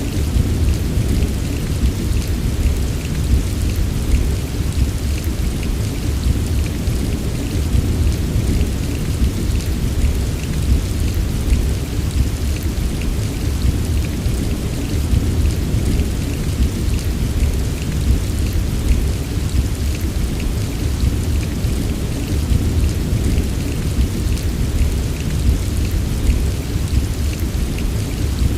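Steady rain falling, an even hiss dotted with the ticks of individual drops, over a constant deep rumble. It holds level throughout, with no single thunderclap standing out.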